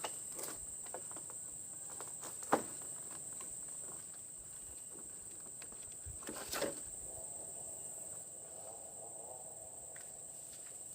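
Insects making a steady high-pitched drone, with a few sharp knocks about two and a half and six and a half seconds in.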